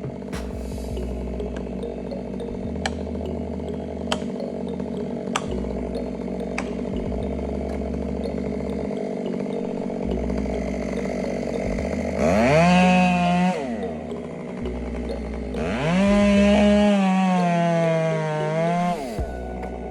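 Chainsaw engine running steadily with a few sharp clicks, then revved up twice: briefly about twelve seconds in, and again for about three seconds near the end, each time rising in pitch and dropping back.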